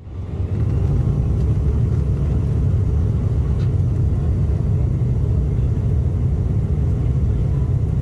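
Steady low rumble of cabin noise inside an Embraer E175 airliner, fading in over the first half second.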